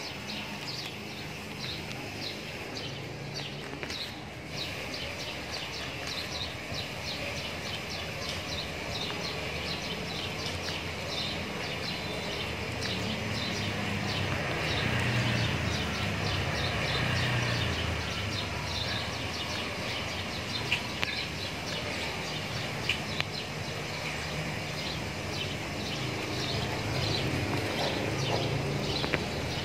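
Outdoor ambience: small birds chirping rapidly and continuously, several high chirps a second, over a low background rumble that grows louder in the middle.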